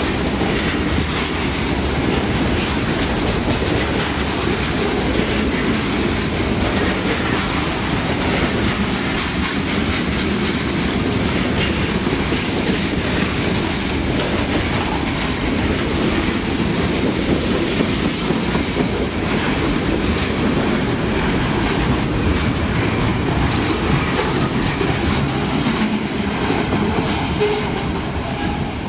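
CSX freight train rolling past, a long string of covered hopper cars with the wheels clattering over the rail joints in a steady rumble.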